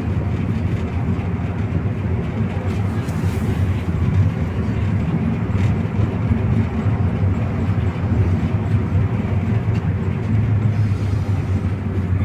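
MAZ-215 articulated city bus heard from inside the passenger cabin while under way: a steady low engine drone with road and body rumble.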